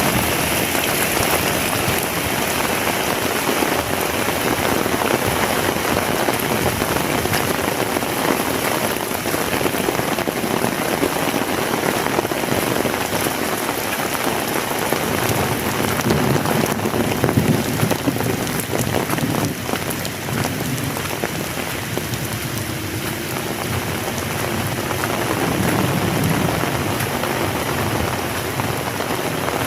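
Heavy rain falling steadily, a dense even downpour that swells a little in the middle and again near the end.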